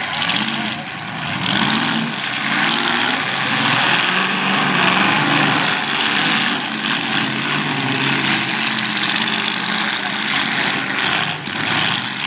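Several demolition derby cars' engines running and revving together, their pitch rising and falling as the cars drive around the arena.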